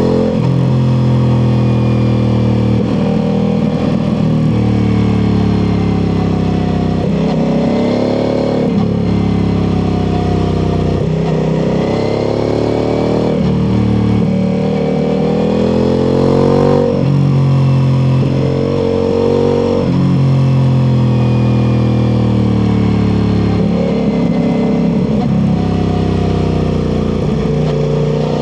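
Ducati Multistrada V4 Pikes Peak's V4 engine through an Akrapovic exhaust, pulling hard and shifting through the gears again and again. The pitch climbs, then drops at each shift.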